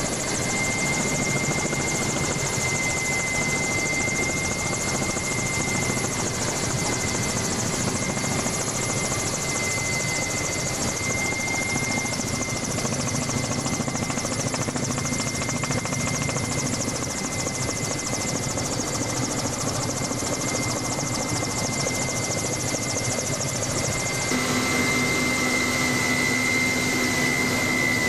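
Helicopter in flight heard from on board: steady engine and rotor noise with a constant high-pitched whine. The sound shifts slightly about 24 seconds in, when a low hum joins.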